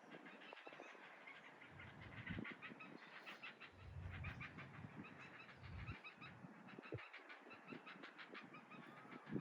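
Faint, rapid calling of geese, many short notes in quick succession, mixed with the chatter of other birds.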